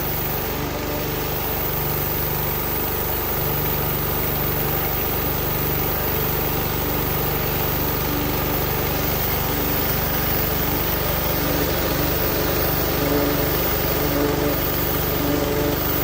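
An engine running steadily at idle under a continuous even hiss.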